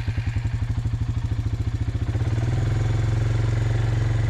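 A vehicle's engine just after starting, running with an even pulsing beat. About two seconds in, it smooths into a steadier, fuller hum as the vehicle pulls away.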